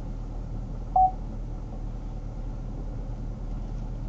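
Chevrolet Camaro's engine idling as a steady low hum, heard from inside the cabin, with one short, loud electronic beep about a second in.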